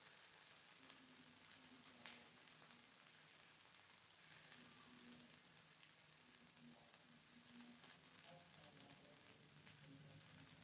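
Faint sizzling of a moong dal chilla (mung bean batter crepe) frying in a pan, with scattered small crackles.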